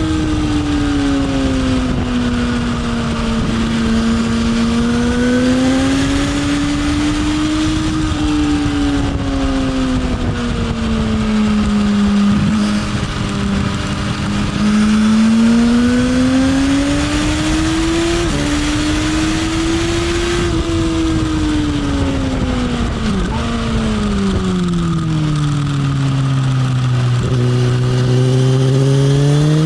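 Motorcycle engine on a race track, heard from on board. Its pitch rises and falls in long sweeps as the bike accelerates and slows through corners, with a couple of sudden drops in pitch like gear changes, under a steady rush of wind.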